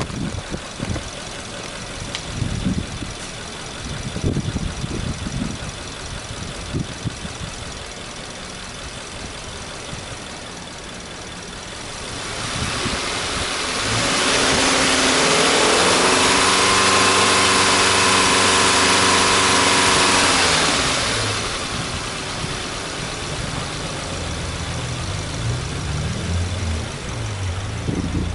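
Subaru Impreza's FB20 2.0-litre flat-four engine idling, then revved up about halfway through, held at high revs for about five seconds and let fall back to idle.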